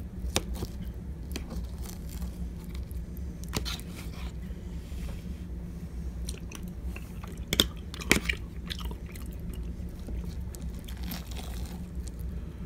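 A person chewing and eating close to the microphone, with scattered sharp clicks and taps, the two loudest about two thirds of the way in. A low steady hum runs underneath.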